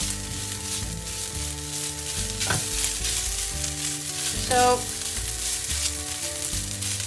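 Palapa, a grated coconut and chili mixture, sizzling in a hot nonstick pan while a spatula stirs and scrapes it around. A single short squeak about halfway through is the loudest moment.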